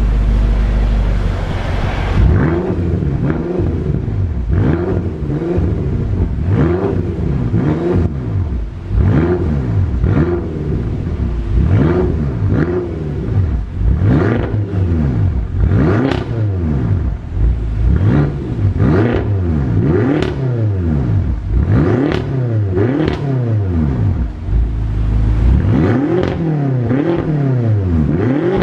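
BMW F10 M5's twin-turbo V8 through an Eisenmann aftermarket exhaust, blipped over and over in quick revs of about one a second, with a few longer, slower revs near the end.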